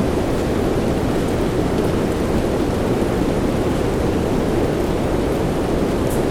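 Soft rain, a steady, even low hiss with no break or change.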